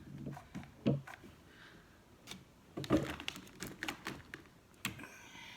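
Irregular light clicks and taps as craft pieces are handled and set in place on a work surface, with a short rustle near the end.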